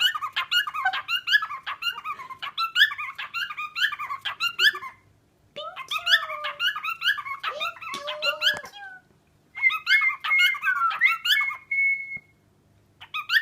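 A pet parrot making rapid, high-pitched chirping squeaks in three long runs, the last ending in a held whistle.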